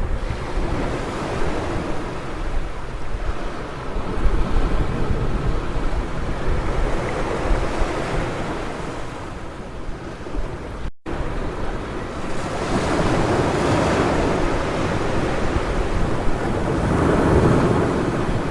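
Ocean surf washing onto a beach, with wind buffeting the microphone. The waves swell louder in the second half, and the sound drops out completely for a split second about eleven seconds in.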